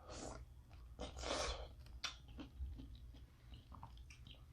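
A person eating close to the microphone: faint chewing and small clicks, with two short soft hissing sounds in the first two seconds.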